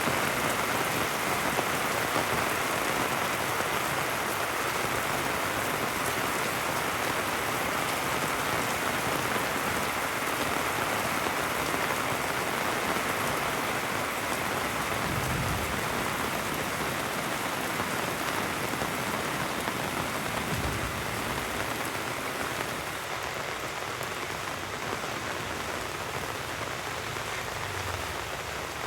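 Heavy rain falling steadily, a dense even hiss that eases slightly near the end. Two short low thuds come in about halfway through.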